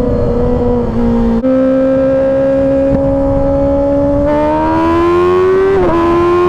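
Kawasaki Ninja ZX-6R's 636 cc inline-four pulling under acceleration, its pitch climbing steadily. There is a brief dip about a second in and a quick drop in pitch near the end, like a gear change.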